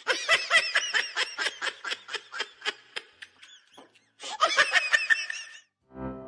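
High-pitched laughing in rapid pulses, about six or seven a second: a run of about three seconds, a short pause, then a shorter second run.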